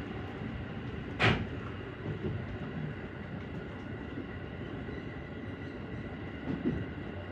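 JR Central 313 series electric train running, heard from inside the front car as a steady rumble of wheels on track. A single sharp, loud clack about a second in, and a smaller knock near the end.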